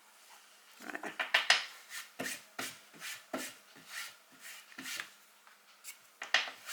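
Fingers rubbing and dabbing on cardstock in a run of short rough strokes, about two a second, with one more stroke near the end.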